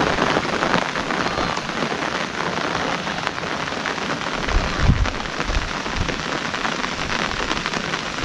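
Steady rain falling, a dense patter of drops ticking, with a brief low rumble about halfway through.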